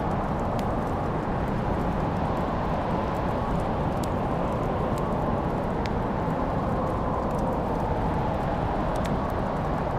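Wood fire burning in a fireplace: a steady low rushing noise with a handful of sharp crackling pops scattered through it.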